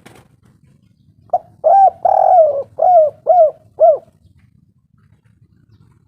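Spotted dove (tekukur) cooing: a short note, then a phrase of five coos over about two and a half seconds. The second coo is drawn out and the last three are short and evenly spaced.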